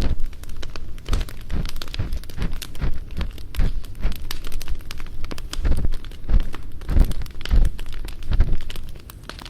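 An ear pick scraping and rubbing inside a binaural microphone's ear, in repeated strokes about every half second to second, each a low rumble with a scratchy crackle. Campfire crackling runs underneath, and the strokes stop shortly before the end.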